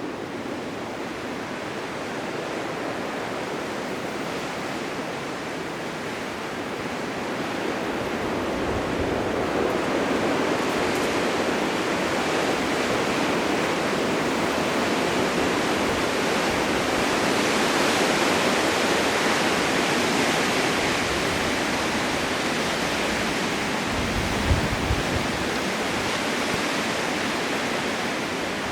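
Blizzard wind rushing, swelling louder through the middle and easing slightly, with a couple of brief low thuds near the end.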